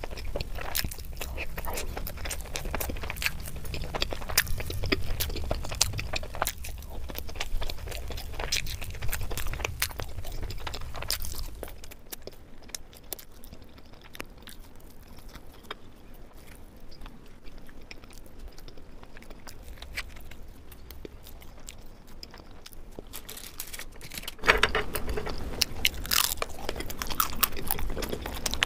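Close-miked chewing and biting of Indian sweets such as laddoo and jalebi, with moist clicking mouth sounds. They go quieter for about the middle third, then grow louder again with sharper clicks near the end.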